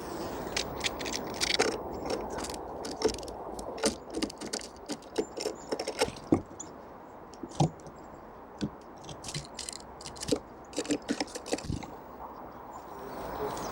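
Small forest birds pecking and hammering at seeds, a quick irregular run of sharp taps and clicks.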